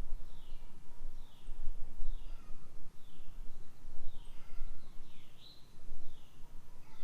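A bird calling over and over, each call a short note sliding downward, repeated a little more than once a second, over a low rumble.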